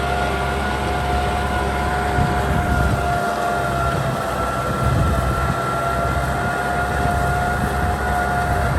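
Kubota M6040 SU tractor's diesel engine running steadily, with a steady high whine over the engine note.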